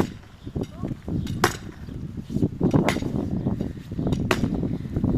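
Hammer striking wooden boards, four hard blows about a second and a half apart with lighter knocks between them.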